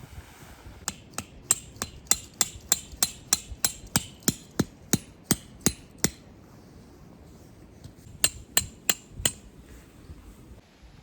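Hammer strikes in a steady run of about three a second, with a crisp ringing top, then a pause and four more strikes near the end.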